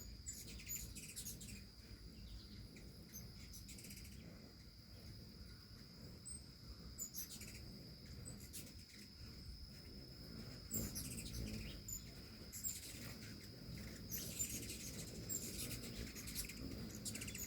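Hummingbirds giving short, high chirps in scattered clusters, over a steady high-pitched insect trill.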